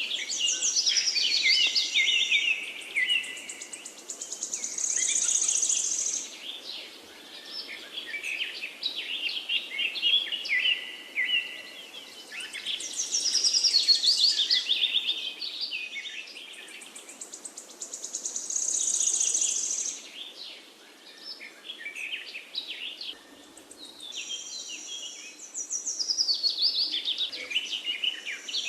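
Songbirds singing: fast trilled and chirping phrases that swell and fade every few seconds, over a faint steady background hiss.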